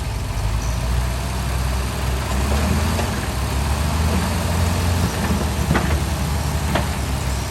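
Heavy diesel engine of earthmoving equipment running steadily at low revs, with a couple of faint clicks in the second half.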